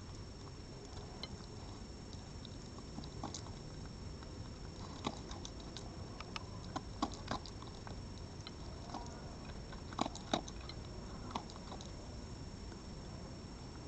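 An animal eating: irregular crunching and clicking chews, coming in clusters, over a steady low background hum.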